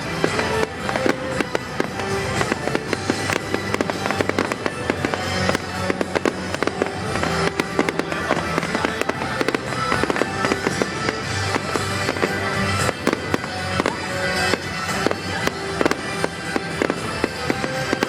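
A fireworks display crackling and banging in rapid, dense succession, many reports a second, with music playing underneath.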